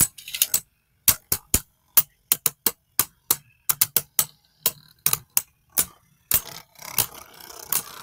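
Spinning Beyblade tops, Spriggan Requiem among them, clashing in a plastic stadium: a rapid, irregular series of sharp clacks, about three or four a second. From about six seconds in a steady spinning whir joins the clacks.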